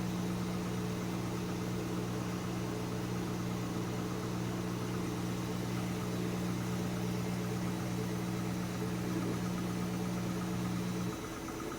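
GE front-loading washing machine spinning an unbalanced load, with a steady low motor and drum hum. The hum drops away near the end as the machine stops the spin, which it does when it senses the load is off balance.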